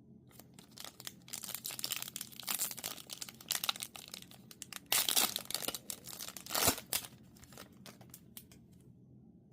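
Foil wrapper of an Upper Deck Marvel Annual trading card pack being torn open and crinkled by hand, a run of crackling rips with the loudest tears about five and six and a half seconds in.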